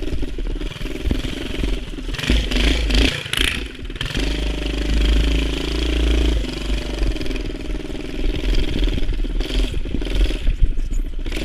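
A mini bike's Predator 212cc single-cylinder four-stroke engine runs under load while ridden, its pitch rising and falling with the throttle. A rush of noise comes about two to four seconds in.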